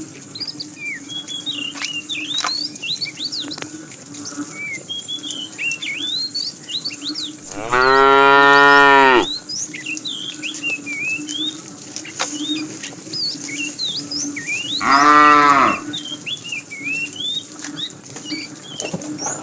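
Cows mooing twice: a long moo about eight seconds in and a shorter one around fifteen seconds. Many short high chirps run in the background throughout.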